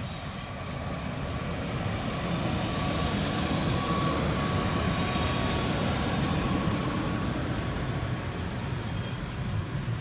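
Berner Oberland-Bahn electric train running past along the platform, its wheels rumbling on the rails. The rumble swells as the railcar and coaches come alongside and eases near the end, with a thin steady whine over it in the middle.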